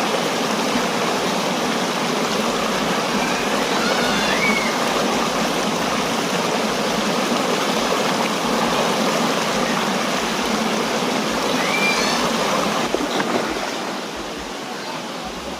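Waterfall and stream water rushing in a steady, dense wash, dropping somewhat in level about fourteen seconds in.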